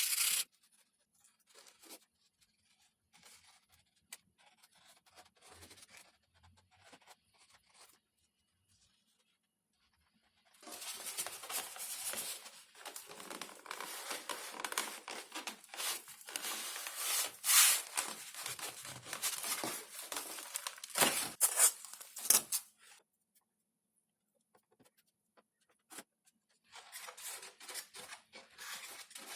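Thin XPS foam sheet being worked by hand, a dense run of scraping and rubbing noise with sharp peaks, coming in one long spell about a third of the way in and a shorter one near the end.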